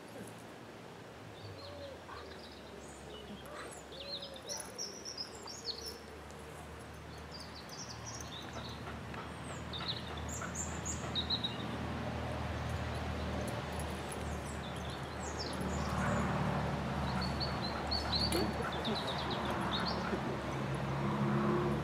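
Small songbirds chirping and twittering throughout, over a low background hum that grows louder in the second half.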